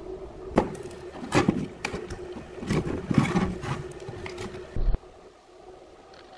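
A steady hum with a run of sharp knocks and scraping handling noises over it, all cutting off suddenly about five seconds in.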